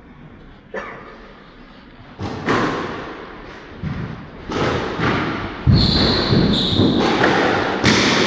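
Squash rally: the ball is struck by rackets and thuds against the court walls at irregular intervals, the hits coming thicker from about two seconds in, with a brief high squeak about six seconds in.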